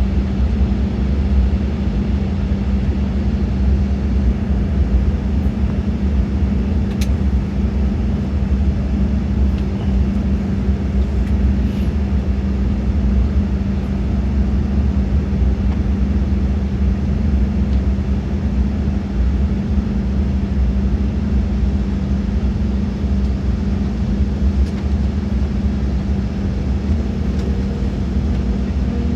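Steady cabin noise inside an Embraer E190 jet airliner: a constant low rumble of the engines and airflow, with a steady hum.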